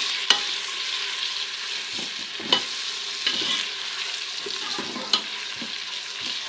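Ginger-garlic paste and golden-fried onions sizzling in hot ghee while being sautéed, with a steady frying hiss. A few sharp clicks, about four, are spread through it.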